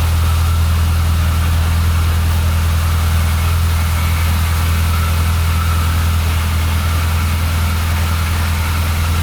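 1994 Mini Cooper SPi's 1.3-litre A-series four-cylinder engine idling steadily with an even low hum, still cold just after a cold start.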